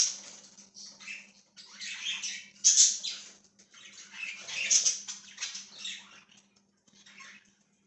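Pet budgerigars chattering and chirping in irregular high-pitched bursts with short gaps, dying down near the end.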